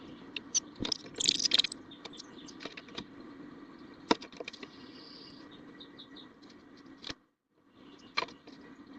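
Small bird moving about inside a nest box, scratching and rustling nesting material, with sharp taps and a brief cluster of high twitters about a second in, over a steady low hum.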